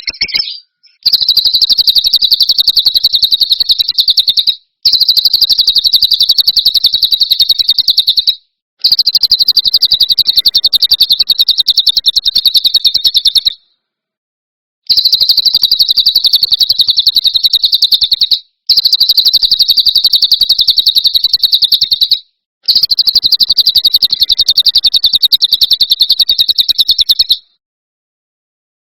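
Recorded songbird call played loud for training caged birds: a fast buzzing trill of rapid, even notes, repeated six times in bursts of three to five seconds with short breaks. It stops shortly before the end.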